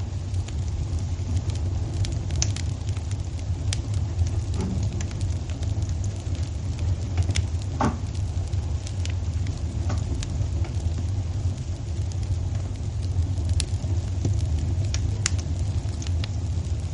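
Wood fire burning in a fireplace: a steady low rumble with scattered sharp crackles and pops, and a brief squeak about eight seconds in.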